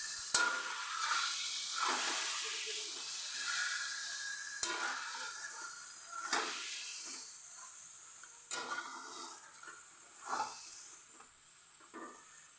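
Marinated chicken sizzling in hot oil with fried onions, the hiss slowly dying down, with a few short scrapes and knocks of a spatula stirring it in the pan.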